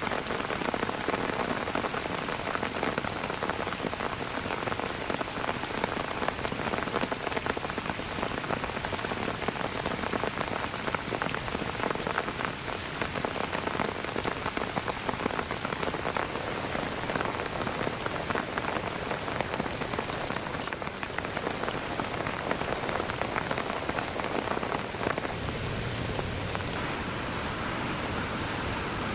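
Heavy rain falling, with a dense patter of drops striking a surface. In the last few seconds the patter evens out into a steadier hiss.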